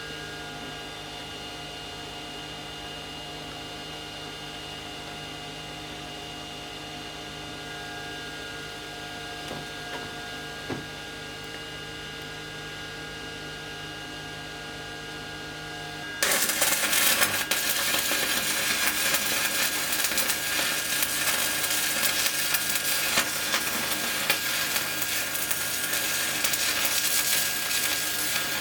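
Steady electrical hum of an inverter welding machine, then about sixteen seconds in a welding arc strikes and a loud, uneven crackling hiss carries on to the end.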